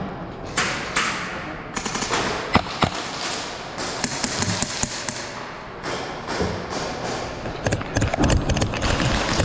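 Thuds and sharp taps of an indoor airsoft skirmish, with a quick run of clicks near the end.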